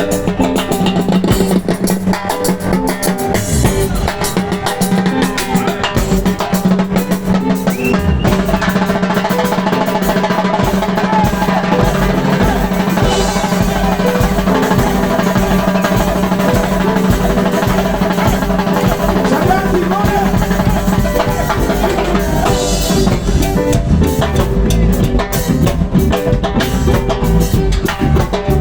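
Live band playing an instrumental reggae passage with no singing: a drum kit with snare and rimshot hits over bass, and sustained chords and melody lines above.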